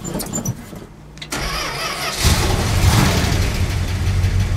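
1974 Dodge truck engine on a cold start: the starter cranks, the engine catches about two seconds in and keeps running steadily.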